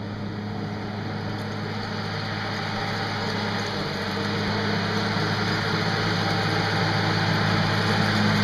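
An engine running at a steady speed, growing gradually louder.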